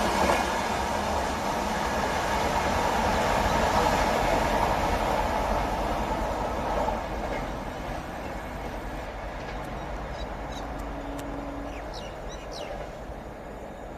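Express train rushing past on the track, a loud steady rail and wheel noise that fades as it recedes. About seven seconds in the noise drops to a quieter steady rumble, with a few bird chirps near the end.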